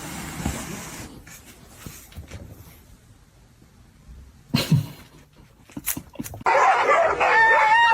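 A pet animal's sounds: a short loud burst about four and a half seconds in, then a loud, wavering high-pitched call over the last second and a half.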